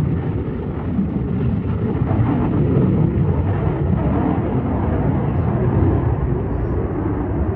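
Aircraft engine noise: a loud, steady rumble with no rise or fall in pitch.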